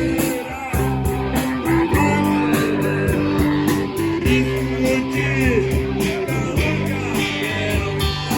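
Rock music: an instrumental passage led by guitar over a steady beat.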